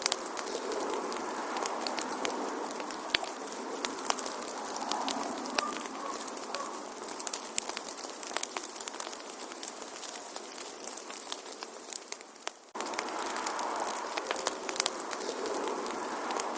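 Wood fire crackling in a fireplace: frequent sharp pops and snaps over a steady rush of flame. About 13 s in, the sound sags briefly, then cuts back in abruptly.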